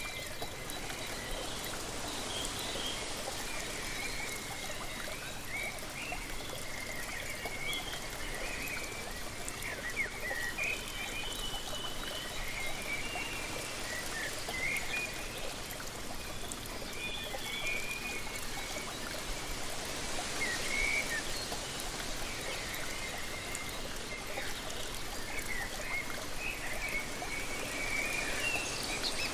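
A waterfall runs steadily, with many birds chirping in short calls over it.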